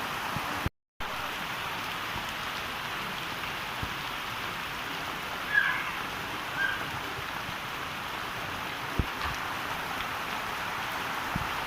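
Heavy rain falling steadily, with a brief cut to silence about a second in. Two short, high chirps sound a little past the middle, and a few faint ticks follow near the end.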